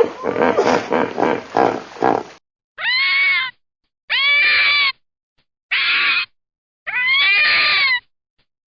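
Animal sounds: a rough, rapidly pulsing grunting noise for about two seconds, then four separate high, drawn-out pitched calls from an animal, each under a second long, with dead silence between them.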